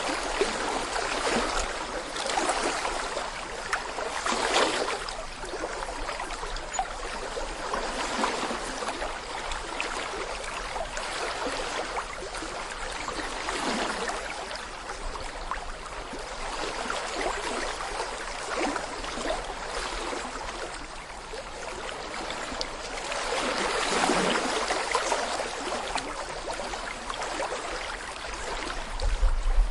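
Shallow brook babbling over stones: a steady rush of flowing water with gurgles, swelling louder twice, a few seconds in and again about three quarters of the way through. A brief low thump comes near the end.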